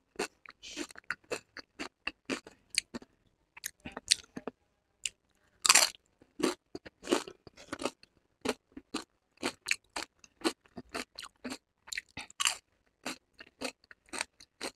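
Close-up chewing of a mouthful of loaded-nacho tortilla chips: a steady run of short, irregular crunches, with the loudest crunches about halfway through.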